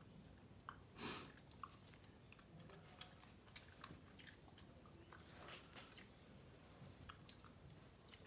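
A person chewing a mouthful of beef biryani, faint, with many small wet clicks of the mouth and one louder, longer rustling sound about a second in.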